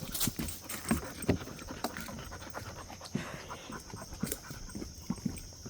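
A dog panting on a walk, with irregular footsteps knocking and scuffing along the trail.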